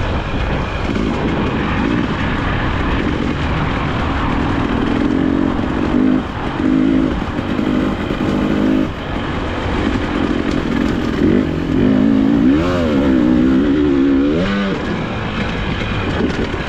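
2022 Husqvarna TE300i two-stroke single-cylinder dirt bike engine revving under riding, its pitch rising and falling as the throttle is worked, with the swings strongest in the last few seconds.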